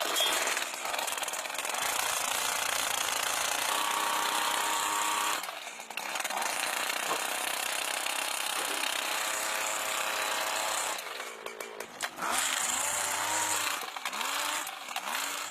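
Jackhammer breaking up the road surface, running in long spells with short pauses about five and a half seconds in and again about eleven seconds in.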